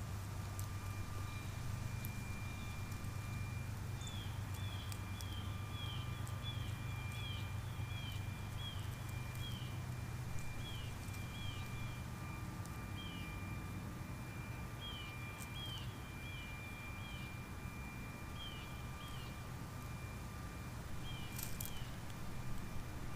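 A small bird chirping repeatedly, short high notes in quick runs of about two a second, over a steady low background hum.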